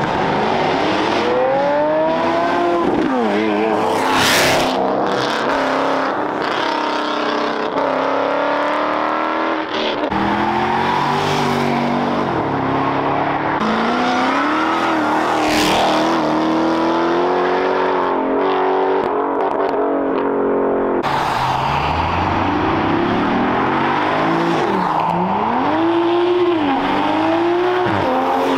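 Several performance cars accelerating hard past one after another. Their engine notes climb and drop back again and again as they rev and shift gears.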